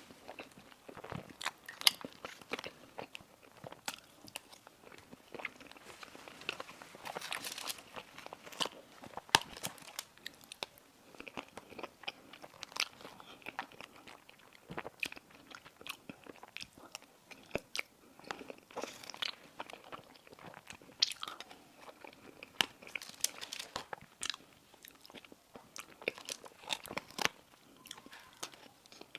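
Close-up eating sounds: crisp bites and crunchy chewing of sweet pastry, with many short, irregular crackles throughout.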